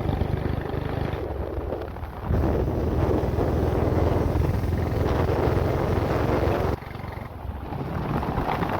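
Motorcycle running on the road with wind rushing over the microphone. The sound changes abruptly about two seconds in and again near seven seconds, as between joined clips.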